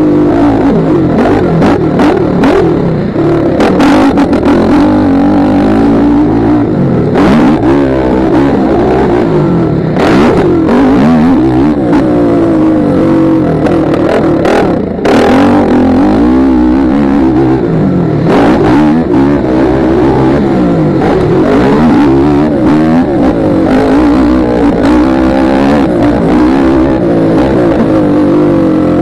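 Motocross bike engine heard close up from the rider's helmet, revving up and down continually through throttle changes while racing. A few short thumps cut across it.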